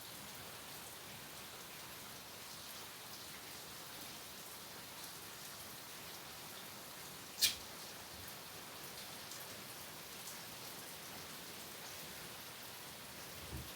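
Steady rain falling on a wooden cabin, a constant hiss with scattered drop ticks. A single sharp click about halfway through stands out above the rain.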